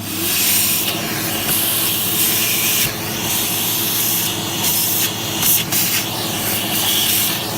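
Vacuum cleaner running at full suction, a steady motor whine with loud rushing air, as it sucks caked dust out of a dirty screw head.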